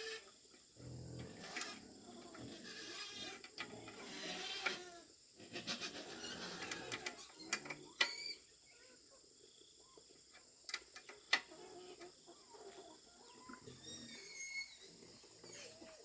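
Farm animals calling: a run of wavering cries through the first half, then a few sharp clicks and knocks, with short high chirps near the end.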